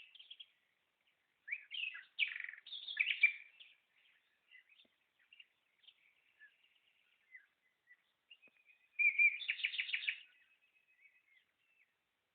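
Songbirds singing and chirping: two loud bursts of rapid, trilling song, one about two seconds in and one about nine seconds in, with soft scattered chirps between them.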